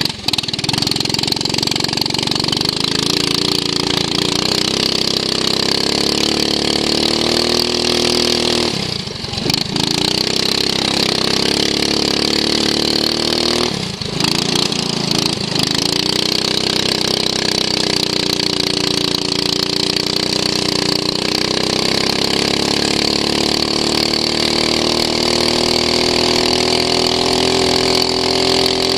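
Racing lawn mower engine running hard, heard from onboard, its pitch slowly climbing. It falls away briefly twice, about nine and fourteen seconds in, as the throttle comes off, then picks up again.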